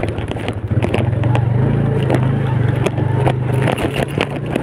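Older Yamaha Vega single-cylinder four-stroke motorcycle engine running steadily while riding, with many short knocks and jolts on the microphone over the engine hum.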